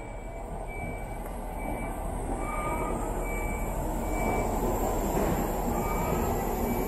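Shinkansen bullet train pulling into the platform, its rumble and rush growing steadily louder. A faint short high tone pips at an even pace throughout.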